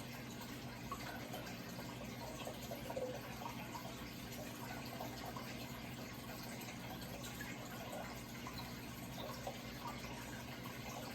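Running water trickling and bubbling steadily, with small splashy blips throughout, over a steady low hum.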